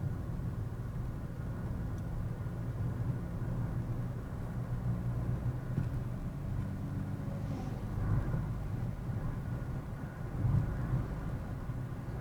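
Car engine and road noise heard from inside the moving car, a steady low rumble with a few short louder bumps in the second half.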